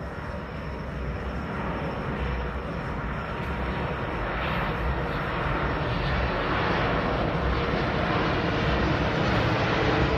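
Jet engine noise from an Airbus A330-300's two Rolls-Royce Trent 772B turbofans on final approach, growing steadily louder as the airliner draws nearer.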